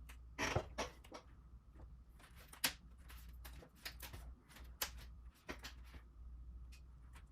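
Irregular small clicks, taps and brief rustles from hands working with small parts and tools at a workbench, over a low steady hum.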